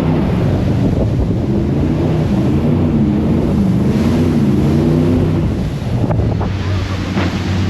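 Jet boat's engine running, its pitch rising and falling with the throttle, under heavy wind buffeting on the microphone and rushing water.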